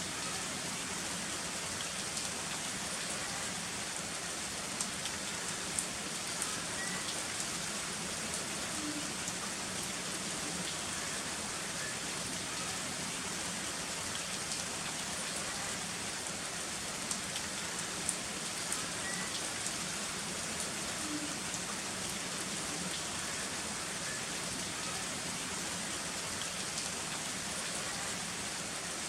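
Heavy rain falling steadily, with scattered sharp drops hitting close by.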